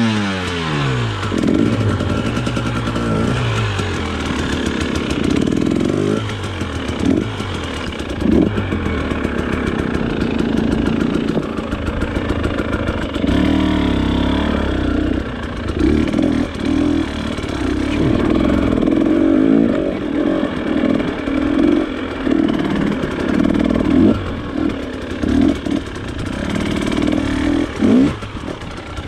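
Off-road motorcycle engine being ridden, its pitch dropping as it slows about a second in, then rising and falling over and over as the throttle is worked.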